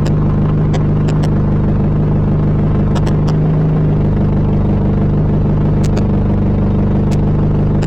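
Citroën Traction Avant 11 Perfo four-cylinder engine running steadily at an even speed, with a few sharp ticks here and there.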